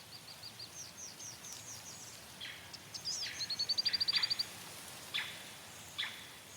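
Sunbird singing high chirps, with a rapid trill of about a dozen notes near the middle. A few down-slurred whistled calls are heard through the second half.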